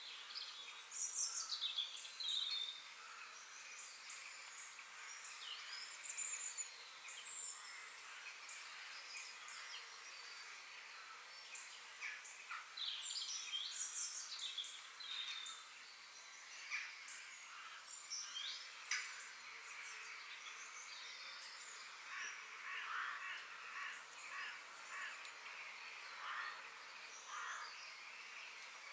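Several songbirds chirping and calling in quick short phrases, some sweeping up and down in pitch, over a steady faint hiss of forest background.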